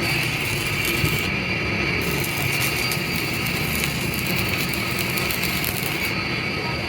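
Workshop machinery running steadily: a constant high whine over a low rumble.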